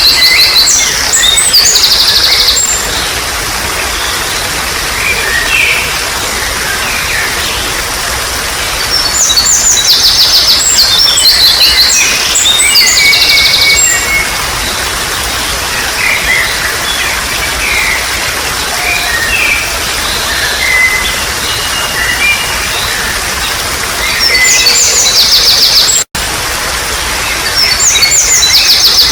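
Water trickling steadily under songbirds singing in bursts of rapid high trills and chirps, loudest at the start, around the middle and near the end. The sound cuts out for an instant about three seconds before the end.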